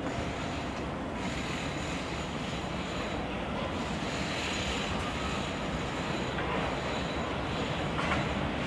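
A train running on the tracks: a steady rail noise with no distinct clicks or horn.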